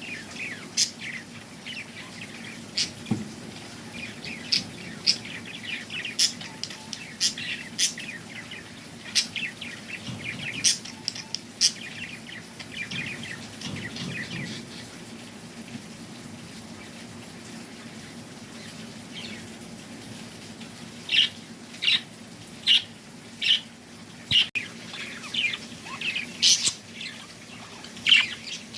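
Small birds chirping: many short, sharp, high chirps, sparse and scattered, with a quick series of louder chirps about two-thirds of the way through and again near the end.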